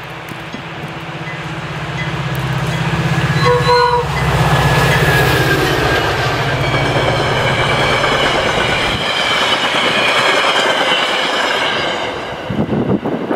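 Metra F40PH diesel locomotive passing at speed: its engine drone builds and then fades, with a brief horn note about three and a half seconds in. The passenger cars follow with a loud rush of wheel and rail noise and faint high wheel whine, and a rapid run of rail-joint clicks near the end.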